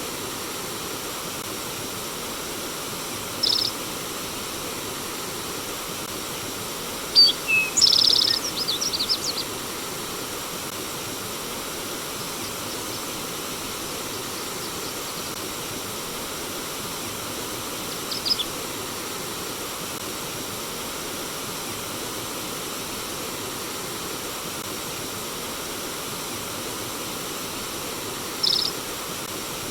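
Steady rush of flowing stream water, with short high bird chirps over it: one a few seconds in, a quick run of chirps about a quarter of the way through, one midway and one near the end.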